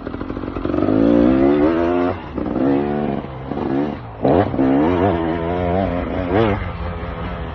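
KTM EXC 300's single-cylinder two-stroke engine being ridden hard. The revs climb about a second in and are chopped off near two seconds. A sharp throttle blip comes a little after four seconds, then the revs waver up and down and settle to a steadier, lower note near the end.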